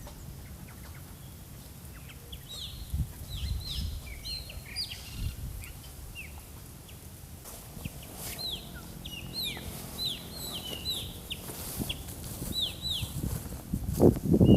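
Birds calling: a run of many short, downslurred chirps, some overlapping, thinning out for a couple of seconds in the middle. A few loud thumps near the end.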